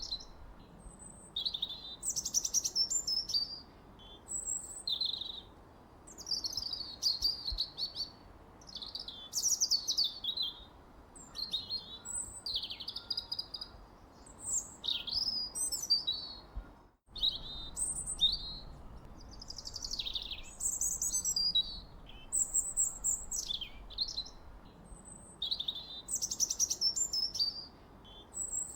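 Songbirds singing in repeated short, high phrases of falling whistles and trills, a new phrase about every two seconds, over a faint steady hiss. The sound cuts out for a split second about seventeen seconds in.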